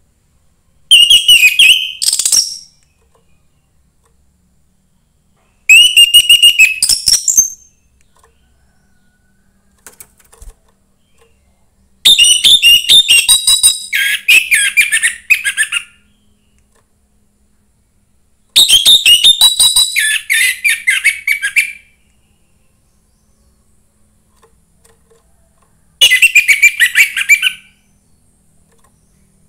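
Young wild-caught orange-headed thrush singing in five loud phrases separated by pauses of a few seconds. Each phrase is a fast run of repeated high notes, and the longer phrases drop to a lower pitch partway through.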